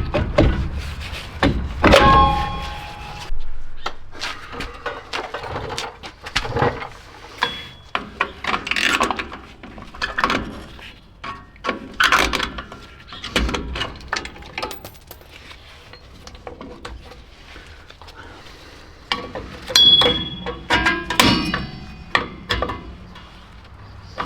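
Metal hand tools and brake parts on a 1970 Chevrolet C10's rear drum brake clinking, knocking and scraping in irregular bursts, with a few short metallic rings, at about two seconds and again at about twenty seconds.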